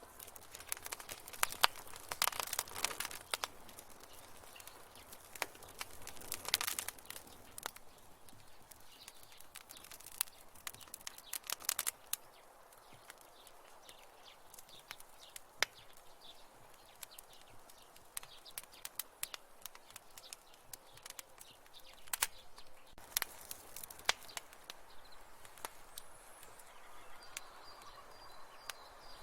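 Wood fire in a fireplace crackling: irregular sharp pops and snaps over a faint steady hiss, with busier flurries of crackles a couple of seconds in, near the middle and again about four-fifths through.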